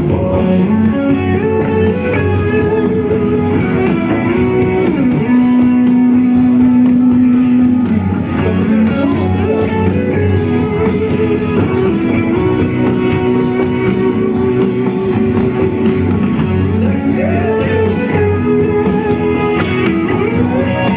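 Instrumental rock music led by a guitar playing long held notes that bend up and down, over the band's backing.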